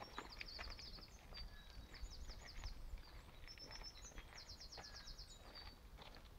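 Faint songbirds singing, with several runs of rapid high trills of about ten notes a second. Soft scattered clicks and a steady low rumble sit underneath.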